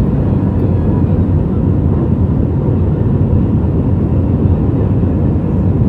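Steady jet engine and airflow noise heard inside an Airbus A320-family airliner's cabin: a constant low rumble with a faint steady tone above it.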